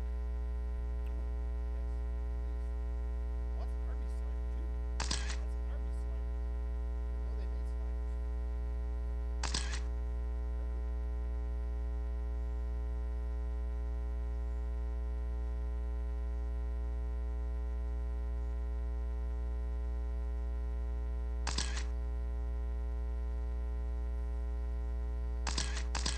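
Steady electrical mains hum and buzz in the audio line, with a few sharp clicks several seconds apart.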